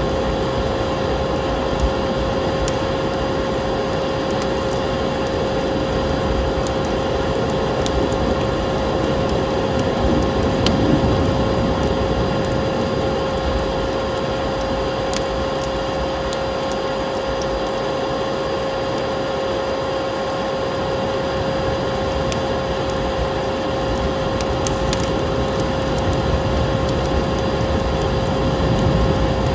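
Wood fire in a fireplace crackling, with scattered sharp pops and snaps over a steady rushing hiss and a constant hum.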